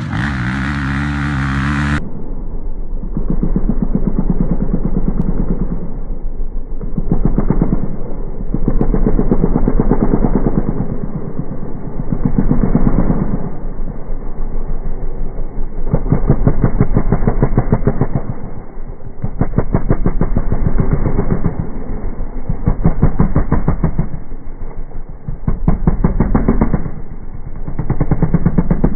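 Enduro motorcycle engine revving up and falling back again and again, in swells every two to three seconds.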